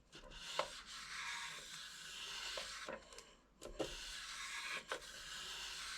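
Steel knife blade being drawn along the abrasive paddle of a knife sharpening jig, a steady scraping hiss in long strokes with a short break about three seconds in.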